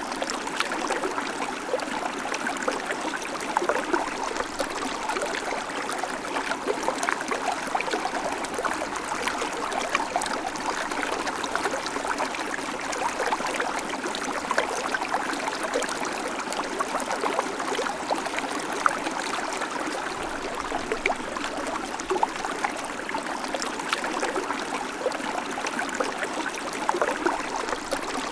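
Small creek babbling steadily over stones, a constant trickling rush with many tiny splashes and gurgles.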